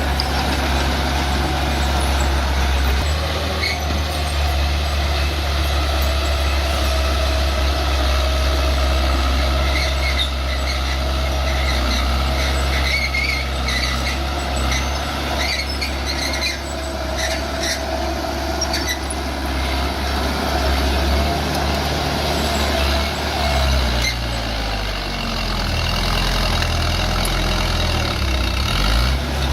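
Bulldozer's diesel engine running steadily under load, with high squeals from the machine at times. Its engine note shifts and wavers near the end.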